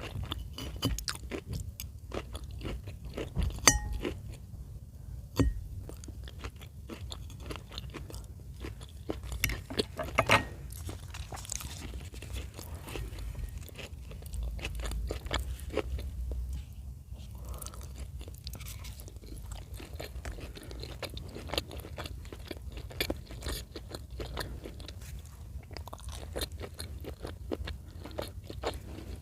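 Close-miked chewing of chicken in cream sauce: a steady run of small, wet mouth clicks, with a few louder bites about 3.5, 5.5 and 10 seconds in.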